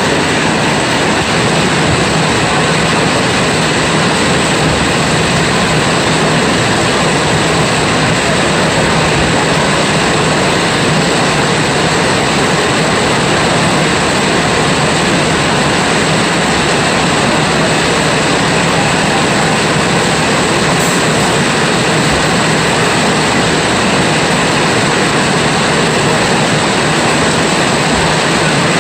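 Heavy rain falling steadily: a loud, even hiss with no let-up.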